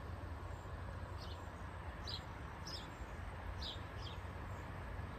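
A small bird chirping outdoors: short, high, downward-sliding notes, about one a second, over a steady low rumble of background noise.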